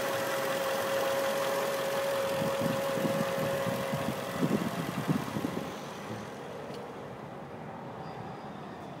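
Mercedes-Benz E55 AMG's 5.4-litre V8 idling, heard close in the engine bay, with a thin steady whine over the engine for the first half. Around halfway through come a few irregular louder thumps, after which the engine sounds quieter and duller.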